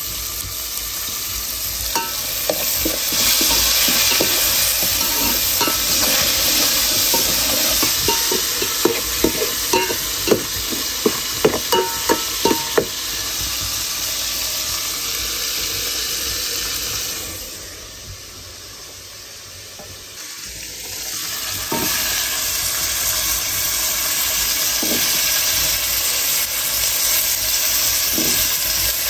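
Tomatoes and onions sizzling in hot oil in an aluminium pot over a wood fire, with a run of quick knocks and scrapes of stirring against the pot. The sizzle drops away for a few seconds after the middle, then returns. Near the end, potato cubes land in the pot.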